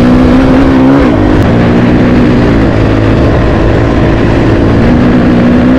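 Honda CRF450RL's single-cylinder four-stroke engine running under way on a dirt trail, its note dipping briefly about a second in and settling steady again near the end, with a rough low rumble of wind and road beneath it.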